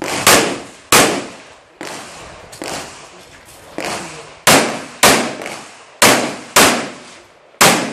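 Pistol shots during a practical-shooting course of fire, each a sharp crack with a short echoing tail. Two loud shots come about half a second apart at the start. After a gap with a few fainter reports, a string of five follows about half a second apart, and one more comes near the end.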